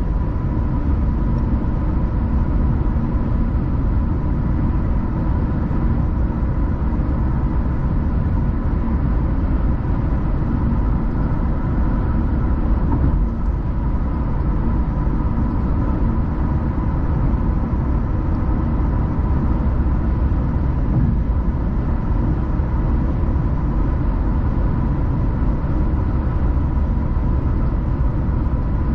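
Steady road noise of a car driving at a constant speed: a low rumble of tyres and engine with a faint steady tone above it.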